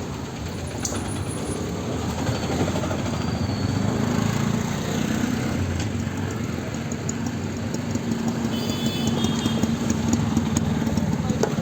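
Busy street traffic: engines of passing vehicles running, with a steady engine drone through most of it. It grows louder over the first few seconds.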